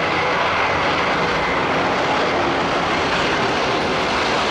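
Recording of an airplane in flight: a steady engine noise with a faint high whine.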